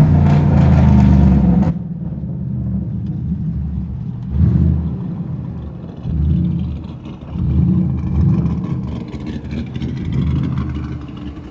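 Car engine running, loud for the first couple of seconds, then dropping back and revving up again in several short surges.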